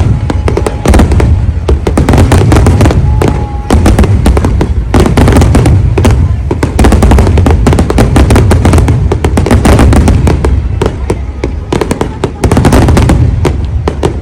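A dense fireworks barrage: rapid, overlapping bangs and crackles over a continuous low rumble, very loud throughout.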